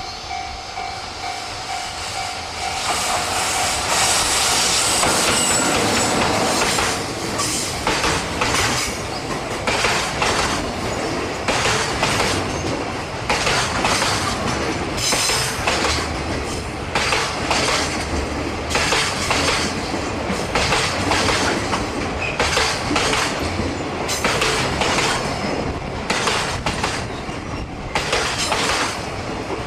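Freight train passing close by: a loud rush as the front goes by, then the wagons rolling past with regular clickety-clack of wheels over the rail joints, about one clack a second.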